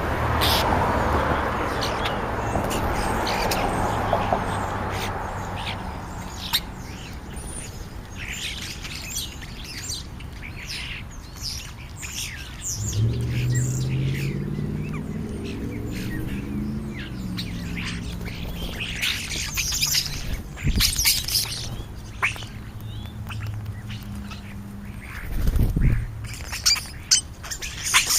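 A flock of European starlings chattering around a feeding spot: many quick chirps, whistles and squawks. A low mechanical hum rises and fades midway, and there is a low thump near the end.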